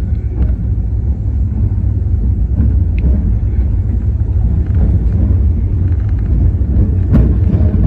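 260 series narrow-gauge electric train running, a steady low rumble with a few sharp clicks, the loudest about seven seconds in.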